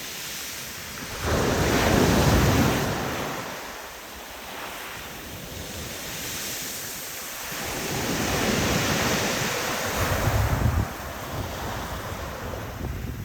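Sea waves breaking and washing up on a beach, with two big surges: one swelling up about a second in, another building later and falling off sharply near the end.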